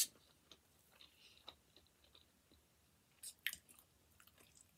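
Faint close-up chewing of a bite of pizza: soft, scattered mouth clicks and smacks, with a louder cluster of sharp mouth sounds about three seconds in.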